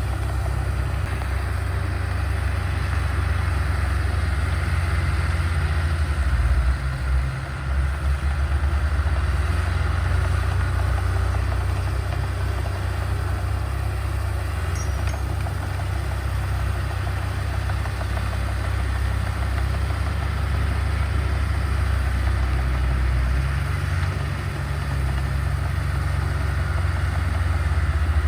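Diesel engine of heavy earthmoving machinery running steadily with a deep low rumble, the level wavering briefly about a quarter of the way in and again near the end.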